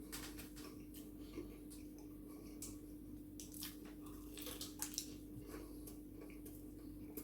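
Close-up eating sounds of a person chewing a chicken tower burger with hash brown: irregular wet clicks and smacks of the mouth. A steady low hum runs underneath.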